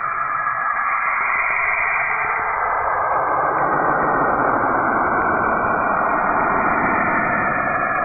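Steady whooshing noise from a planet 'sound' in space, a spacecraft's radio recording of the planet turned into audio. It deepens and thickens from about three seconds in.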